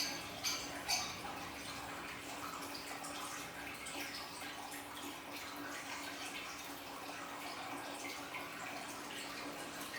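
Water trickling and splashing steadily from a small aquarium waterfall, with a few sharper splashes in the first second. A steady low hum runs underneath.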